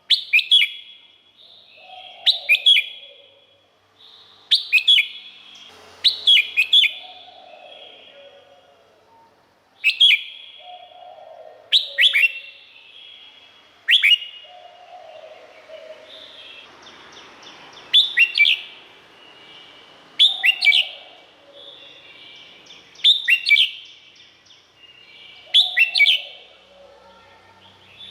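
Red-whiskered bulbul singing: short, bright whistled phrases repeated about every two seconds, each with quick sweeping notes.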